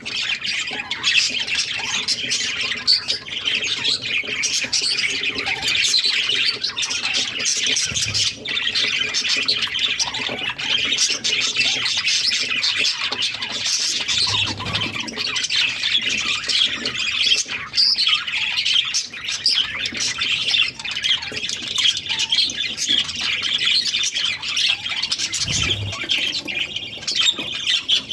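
Budgerigars chattering and squawking without a break, a dense run of high, busy calls.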